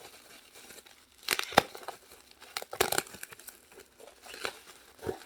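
Packaging being unwrapped by hand: crinkling and tearing of wrapping and tape in four short bursts, with a sharp click in the first.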